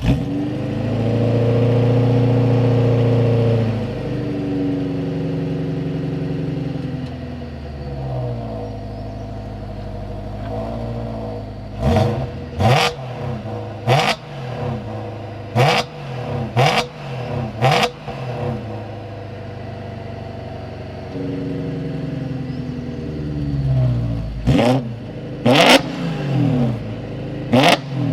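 BMW 1M's V8 engine starting up and running at a raised idle that settles lower after a few seconds, then revved in quick, sharp blips: a set of six, a spell of idle, and three more near the end.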